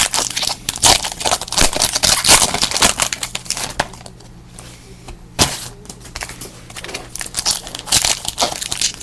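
Foil wrappers of football trading card packs crinkling and tearing as packs are ripped open by hand: a quick run of crackly rustles, with a short lull about four seconds in.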